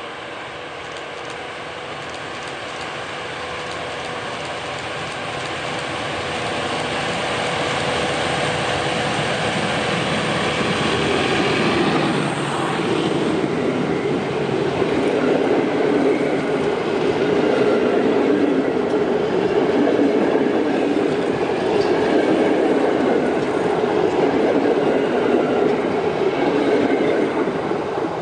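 Diesel-hauled passenger train approaching and growing louder for about twelve seconds, then a steady loud rumble of wheels on rails as the carriages roll past, easing off near the end.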